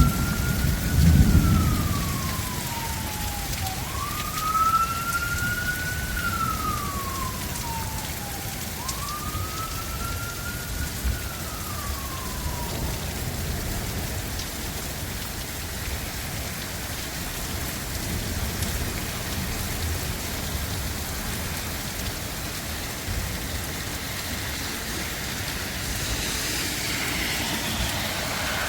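Steady heavy rain falling, with a distant emergency-vehicle siren wailing three times in the first half, each wail rising quickly and falling slowly. A low rumble comes about a second in, and a brief swishing hiss near the end.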